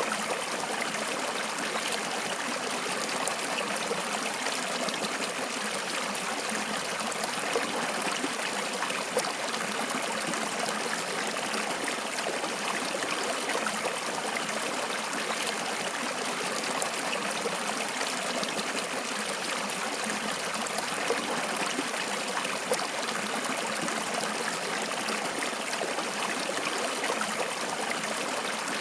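Stream water flowing and trickling steadily, with small splashes now and then.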